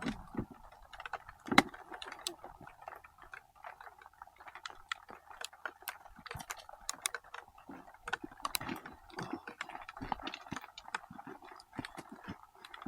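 Raindrops starting to fall, striking the camera and riding gear as many light, irregular clicks and taps.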